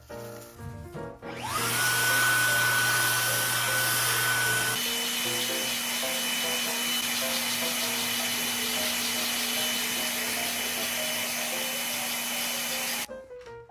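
Vacuum cleaner motor starting with a rising whine and then running steadily. Its pitch shifts about five seconds in, and it cuts off suddenly near the end.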